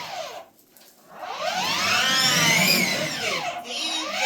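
Electric ride-on toy truck's drive motors whining, the pitch rising and falling as it speeds up and slows down. It drops out briefly about half a second in, then starts up again.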